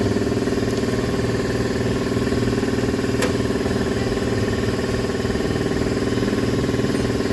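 A machine running steadily with an even, pulsing drone that does not stop or change.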